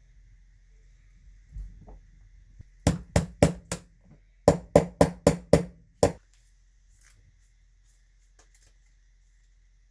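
Ten sharp knocks on something hard in the workshop, in two quick runs: four about three seconds in, then six more after a short pause, about three a second.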